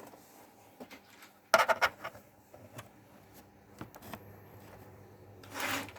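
A quick cluster of sharp clicks and rattles about one and a half seconds in, with scattered lighter clicks around it: hands working the laptop's keys and hardware on the bench.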